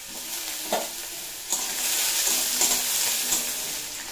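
Potato sticks and green chillies frying in mustard oil in a metal kadai, with a metal spatula stirring and scraping against the pan. There is one sharp tap a little under a second in, and the sizzle gets louder about a second and a half in.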